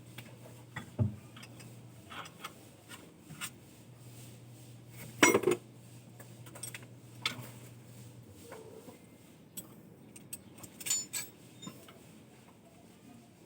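Scattered metallic clinks and knocks of metal parts or tools being handled, with one louder knock about five seconds in. A low steady hum runs underneath and stops about eight seconds in.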